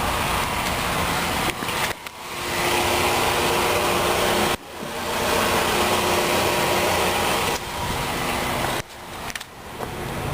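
Steady rushing noise over the low hum of an idling 2008 Chevrolet Cobalt's 2.2-litre four-cylinder engine. The noise drops out abruptly three times, about 2, 4.5 and 9 seconds in, and each time swells back up.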